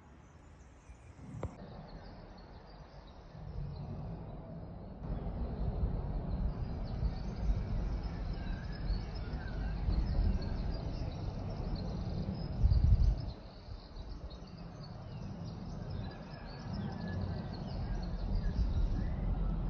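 Outdoor ambience: small birds chirping faintly over a steady low rumble, with a brief louder rumble about thirteen seconds in.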